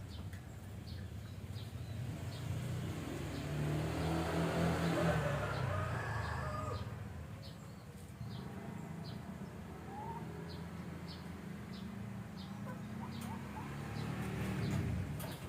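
Lovebirds giving short, regular chirps, about one or two a second, over a steady low hum. A louder, longer call or noise swells up a few seconds in.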